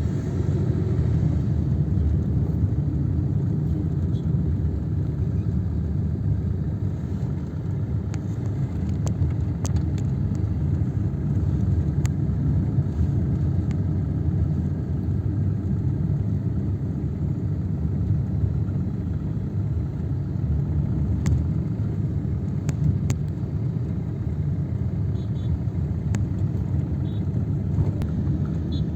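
Steady low rumble throughout, with a few faint ticks.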